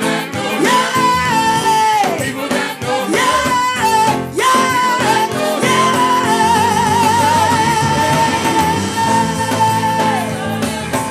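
A gospel worship song played live, with a singer over a band. Through the second half the singer holds one long, wavering note, which falls away near the end.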